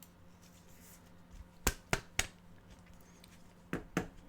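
Faint sharp clicks and taps from trading cards being handled: three quick clicks in a row about halfway through, then two more near the end, over a faint steady low hum.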